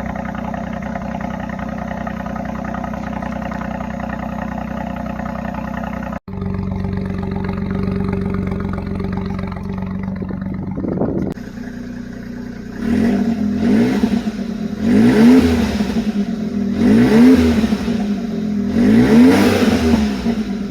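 Suzuki Alto Works' small three-cylinder turbo engine idling steadily through a full 2-inch exhaust, then revved in several quick blips in the second half, each rising and falling in pitch.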